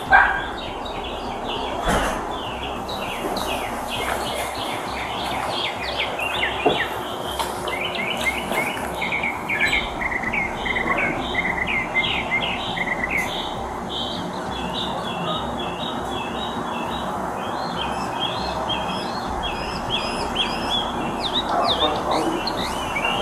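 Songbirds chirping and twittering continuously in quick, dense phrases, over a steady outdoor hiss picked up by a body-worn camera microphone. A brief sharp bump sounds right at the start and a smaller one about two seconds in.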